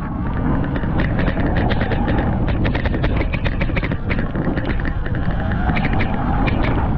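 Surron Light Bee X electric dirt bike being ridden on a dirt track: wind buffets the microphone, the motor's faint whine rises and falls with the throttle, and many knocks and clatters come from the bike over the rough ground.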